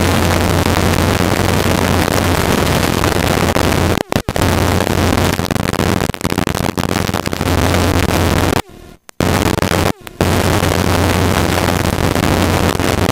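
Helicopter noise heard in flight: a loud, steady rush over a low drone. The sound cuts out sharply for an instant about four seconds in, and again briefly near the nine- and ten-second marks.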